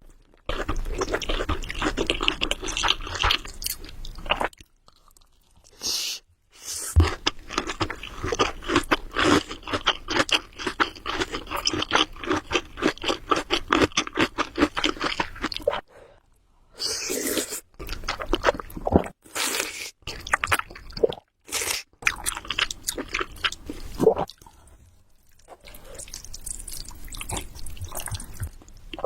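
Close-miked chewing of Samyang Buldak carbonara noodles: wet, clicky mouth sounds in long stretches broken by a few short pauses.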